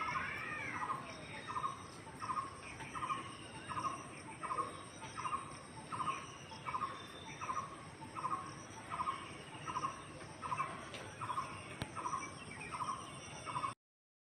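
A bird calling one short note over and over, about one and a half times a second, with fainter chirps from other birds and a steady high whine behind it. The calling cuts off suddenly near the end.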